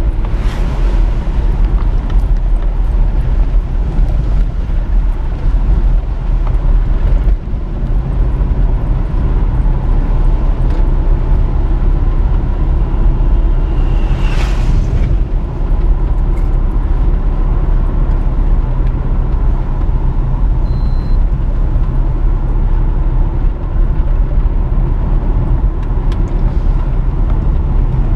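Steady, loud low rumble of road travel in a moving vehicle. A brief rising whine comes about halfway through.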